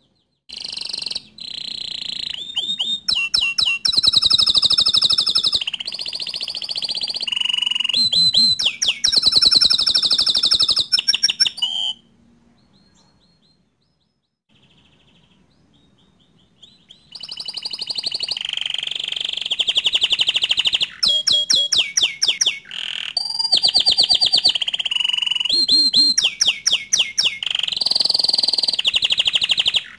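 Domestic canary singing long, fast trills and rolling phrases. About twelve seconds in it falls to a few faint notes for some five seconds, then sings again.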